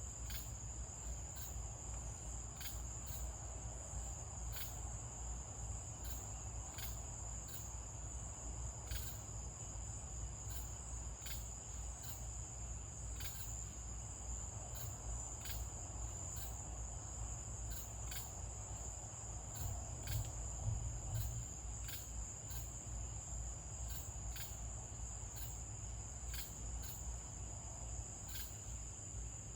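A crickets' chorus: a steady, high-pitched trill that never lets up, with irregular short clicks about once or twice a second over a low rumble.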